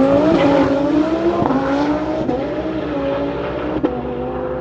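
Twin-turbo Audi R8 V10 engine at full throttle on a half-mile run, pulling hard away through the gears. Its pitch dips briefly at the shifts, about a third of a second and two seconds in, and the sound fades slowly as the car recedes.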